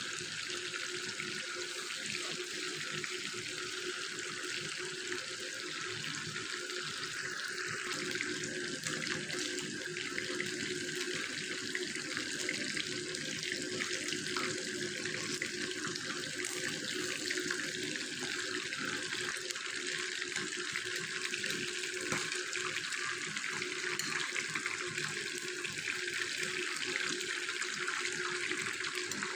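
Chicken pieces shallow-frying in hot oil in a nonstick pan, a steady dense sizzle with fine crackling.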